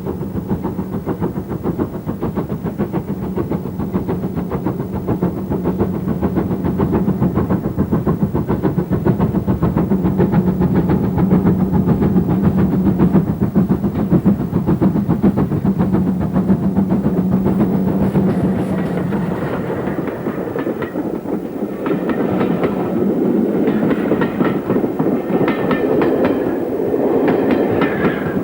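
Great Western Castle-class four-cylinder steam locomotive working a train, a fast, steady run of exhaust beats and mechanical clatter. In the last third a sharper, higher rhythmic clatter of wheels on rail joins in.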